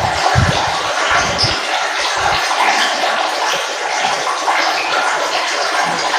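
Running water flowing and trickling steadily, with some low rumbling in the first two seconds or so.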